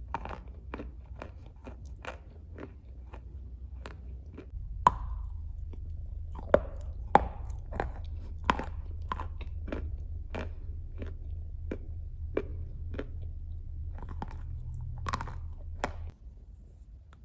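Dry clay being bitten and chewed close to the microphone: a string of sharp crunches, about one or two a second, with the loudest bites about five and seven seconds in.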